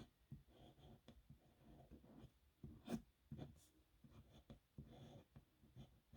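Nib pen scratching across paper in a run of short, irregular writing strokes, with a few sharp ticks as the nib touches down.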